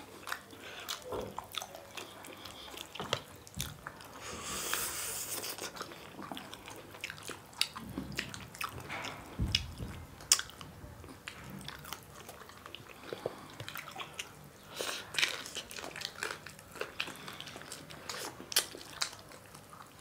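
Two people eating rice with rajma curry and chicken wings by hand: close-miked chewing and biting, with many short wet clicks and smacks. A brief hiss comes about four seconds in.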